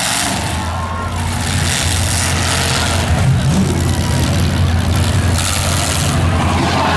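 Demolition derby car's engine running loud and steady, with a short rev about three seconds in.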